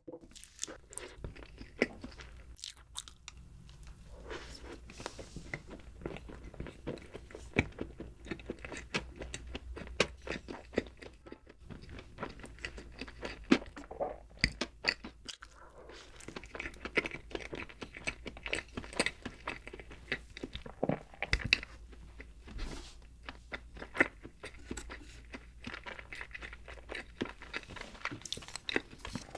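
Close-miked chewing of soft chocolate cake: a steady run of small wet mouth clicks and smacks at an irregular pace, with a few sharper clicks now and then.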